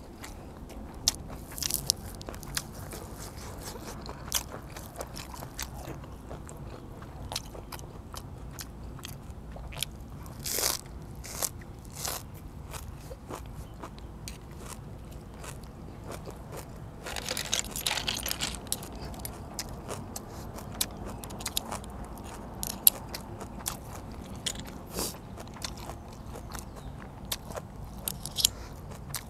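Close-up eating sounds: crunching and chewing of fresh raw greens and blanched blood cockles, with scattered sharp clicks and scrapes of cockle shells against a metal spoon. A longer stretch of crunching comes about 17 seconds in.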